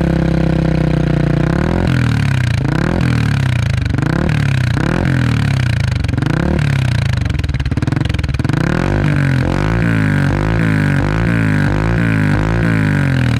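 Yamaha Sniper 150's single-cylinder engine through a ProLiner aftermarket exhaust, holding steady for about two seconds, then revved in repeated quick throttle blips that rise and fall in pitch. The blips come faster over the last few seconds.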